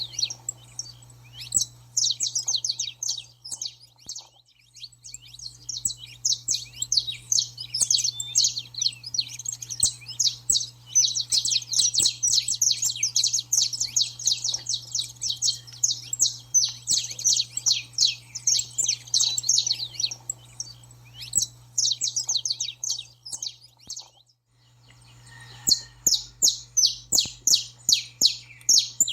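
Saffron finches singing in a dense, continuous jumble of rapid high chirps and trills, broken by a short pause about 24 seconds in before they start again.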